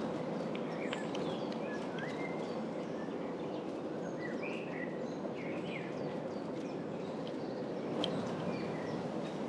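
Small birds chirping and whistling in short, scattered calls over the steady rolling rumble of an electric bicycle riding along a path.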